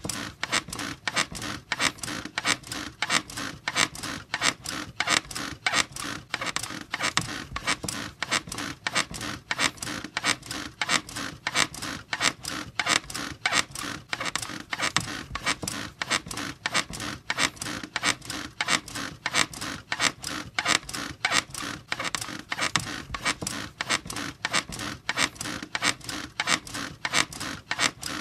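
Squeaky bed creaking in a steady rhythm, about two to three squeaks a second, as if rocked up and down without a break.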